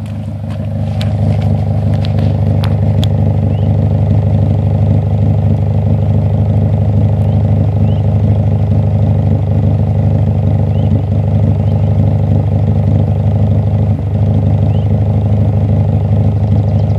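Acura Integra's B18B four-cylinder engine idling steadily, with a few clicks in the first seconds. About fourteen seconds in the idle briefly stutters: the very random misfire the owner cannot duplicate.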